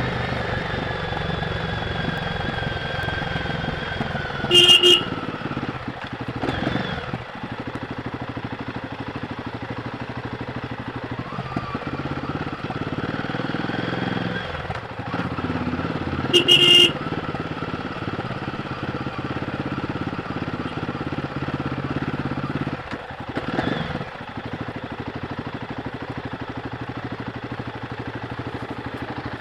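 Royal Enfield Guerrilla 450's single-cylinder engine running on stock exhaust, its pitch slowly falling and rising with the throttle. A horn beeps twice, each briefly: about five seconds in and again about twelve seconds later.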